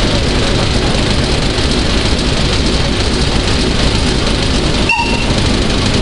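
Railway locomotive running with a steady loud rumble, and a very short high toot about five seconds in.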